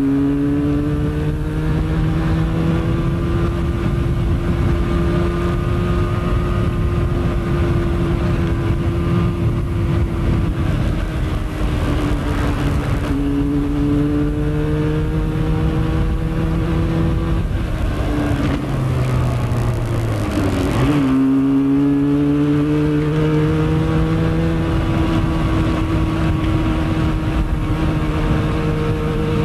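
Motorcycle engine running under way, heard from a bike-mounted camera over a steady rushing road and wind noise. The engine pitch climbs and falls several times as the throttle opens and the gears change, with a sharp drop and pick-up about twenty seconds in.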